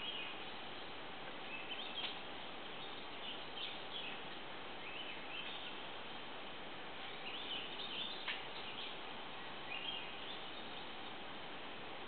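Small birds chirping in short calls now and then over a steady background hiss, with one sharp click about eight seconds in.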